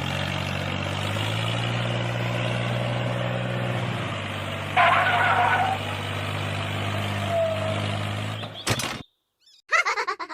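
Tractor engine running steadily, with a short, louder, higher-pitched sound about five seconds in. The engine cuts off suddenly near the end, followed by short squeaky chirps.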